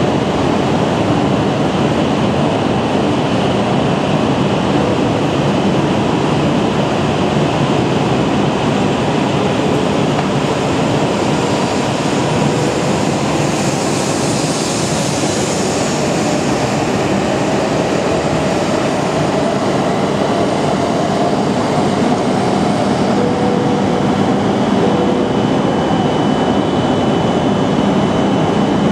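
Tohoku Shinkansen train running at a station platform: a loud, steady noise of motors and wheels, with a brief brighter hiss about halfway through.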